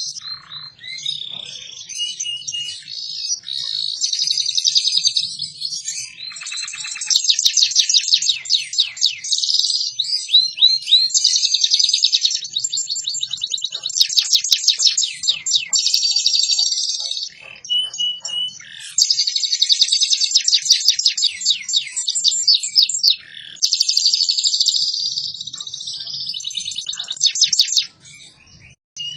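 Canary singing long phrases of very fast, tightly packed high-pitched trills and rolls, with brief breaks between phrases.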